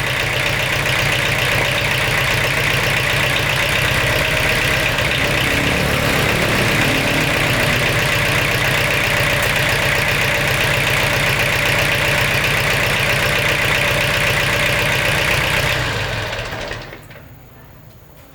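Restored tractor's engine running steadily at idle with an even, fast rhythm, then dying away near the end.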